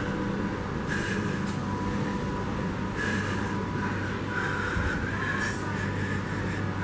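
Train at a station platform: a steady low hum, with a higher tone and bursts of hiss coming and going every second or two.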